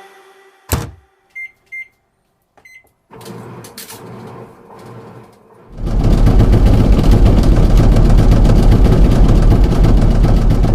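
Washing machine being started: a click, then three short high control-panel beeps, a quiet hum, and from about six seconds in a loud steady rushing and low rumbling as the machine begins to run on its test cycle after repair.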